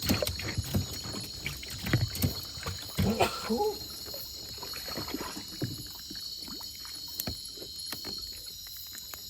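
Water sloshing and splashing around a small wooden boat, with irregular knocks against the hull, busiest in the first few seconds and then quieter.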